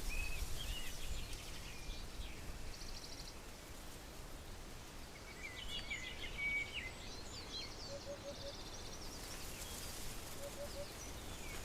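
Forest ambience of small songbirds chirping and whistling, with a quick trill about three seconds in, over a low steady background hush. A soft, quick three-note call repeats twice in the second half.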